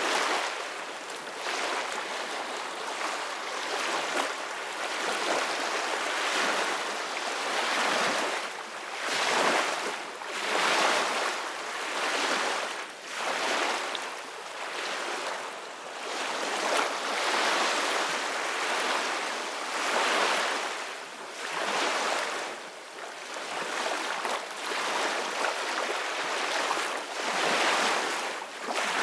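Ocean waves breaking and washing, a continuous hiss of surf that swells and ebbs every two seconds or so.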